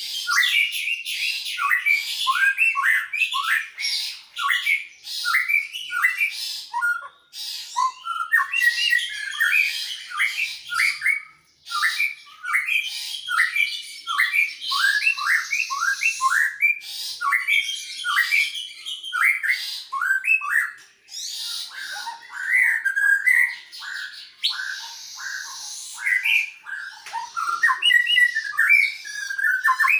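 A greater green leafbird and a white-rumped shama singing back and forth in a rapid, continuous string of short sliding whistled notes. Harsher rasping phrases come in around the middle and again past two-thirds of the way through.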